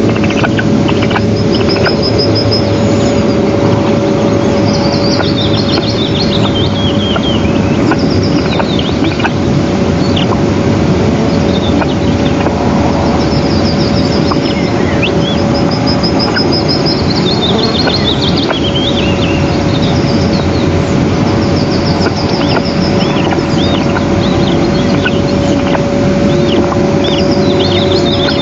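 Steady loud rushing noise with a constant low hum, and high-pitched bird chirps and trills coming in several short bouts over it.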